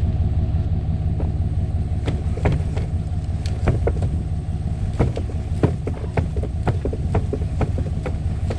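A vehicle engine running at a steady low pitch, with a scattering of short clicks and knocks over it.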